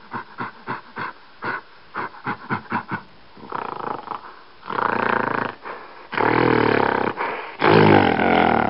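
Silverback gorilla calling: a quick run of short grunts, about four a second, then four longer, deeper calls that grow louder, the last two the loudest.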